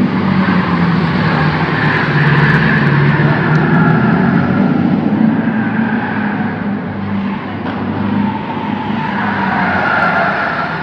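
A car running and driving, with a steady engine hum under road and tyre noise, easing off slightly near the end.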